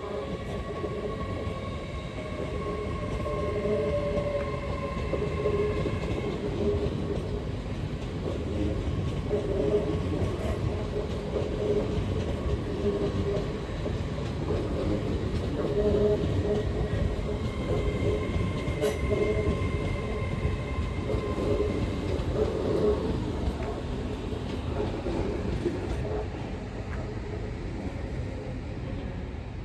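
LNER Class 801 Azuma train running at the platform: a steady rumble with held whining tones that fade and return.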